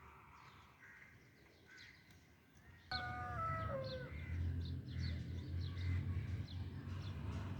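Birds chirping and calling, with one clear call stepping down in pitch about three seconds in. At the same moment a low rumble starts and continues to the end.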